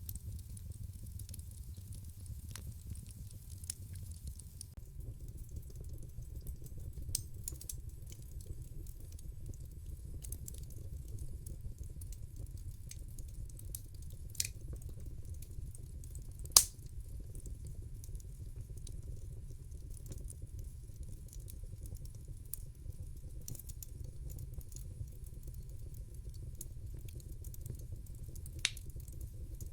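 Wood fire crackling in a fireplace: a low steady rumble with scattered sharp pops, the loudest a little past halfway through.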